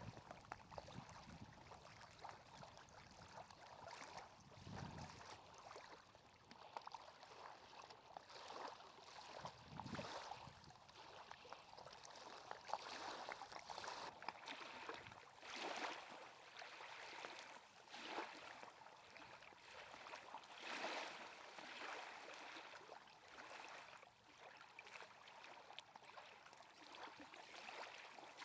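Faint lakeside water: soft lapping and gurgling that swells every two to three seconds.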